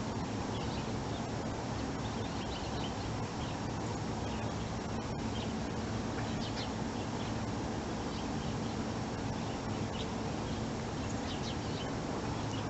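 Small birds chirping now and then in short, high calls over a steady low rumble.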